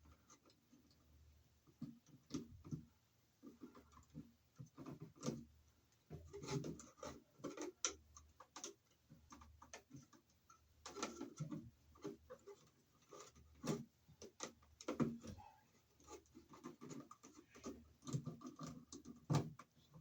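Electrical wires being handled in a junction box: scattered, irregular clicks, taps and scraping as the conductors are gathered and lined up for twisting.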